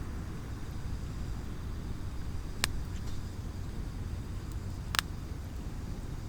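Wood burning in a small campfire stand, with two sharp crackling pops about two and a half seconds apart, over a steady low rumble of the surroundings.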